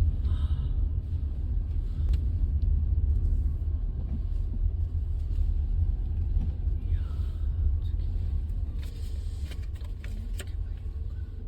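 Strong wind buffeting the microphone: a loud, uneven low rumble that swells and dips, with a few faint clicks.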